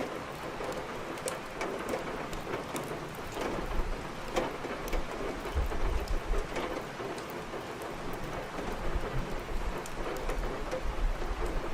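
Steady rain falling, mixed with the scattered sharp crackles of burning firewood in a fireplace. A deep low rumble swells a few seconds in and again near the end.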